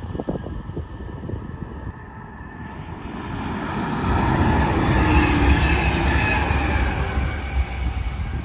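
Electric double-deck Intercity train passing on overhead-wire track. The rush of wheels on rail grows from about three seconds in, peaks loud for a few seconds with some faint whining tones, then begins to fall away near the end.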